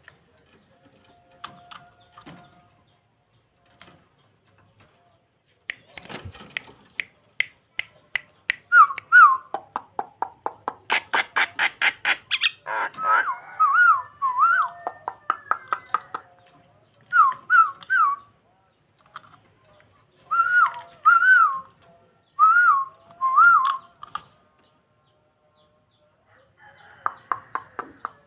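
Starling (jalak) singing: a fast run of clicking, rattling notes gives way to short whistled notes that loop up and down, repeated in groups of two or three with brief pauses, and another rattle near the end.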